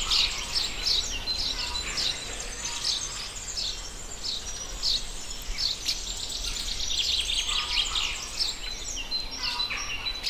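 Small birds chirping and twittering: a continuous run of short, high, mostly falling notes, many in close succession.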